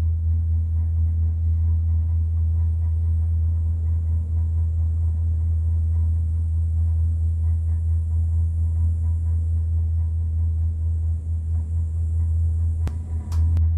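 Steady low rumble and hum inside a moving gondola cabin, with a few sharp clicks near the end.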